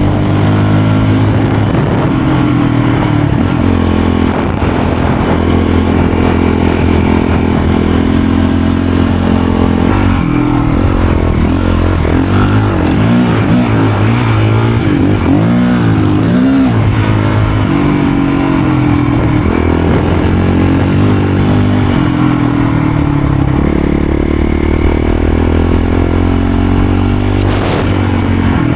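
Motorcycle engine running while riding, steady for long stretches. The revs rise and fall several times in the middle.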